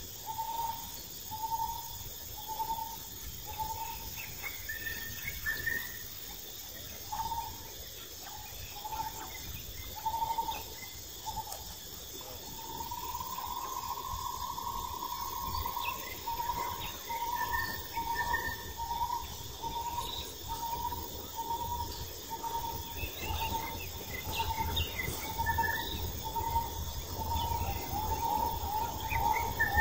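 A bird repeating a short, even note about once or twice a second, with a longer held note midway and scattered higher chirps, over outdoor background hiss.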